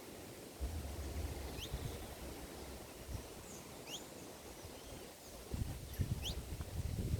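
Small birds giving short, high, quickly sliding chirps, about one a second, over a low rumble that gets louder near the end.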